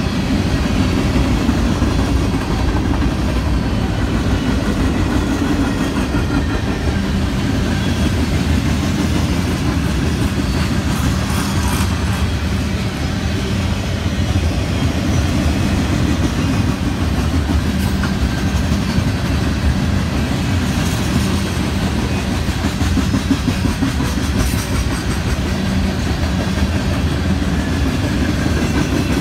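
Railroad cars rolling past on the track: a steady rumble of wheels on rail with some clatter.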